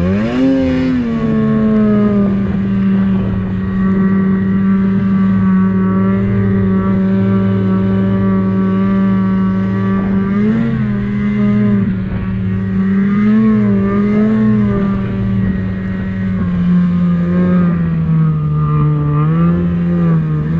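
Snowmobile engine running at a fairly steady pitch, with short swells and dips in engine speed about halfway through and again near the end as the throttle is worked.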